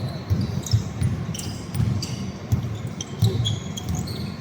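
Basketball bouncing on a court in play, irregular thumps, with short high sneaker squeaks among them.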